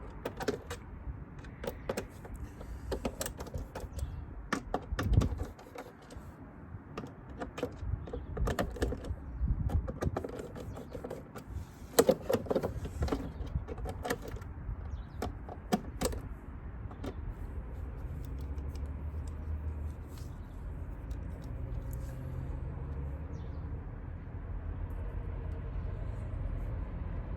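Irregular clicks, taps and knocks of hands handling small hard parts, with a few louder knocks about 5 and 12 seconds in. About two-thirds of the way through, the clicking dies away and a steady low rumble takes over.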